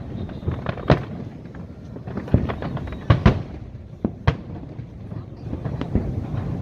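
Aerial firework shells bursting in an irregular series of sharp bangs, a dozen or so, several of them loud, over a continuous rumble.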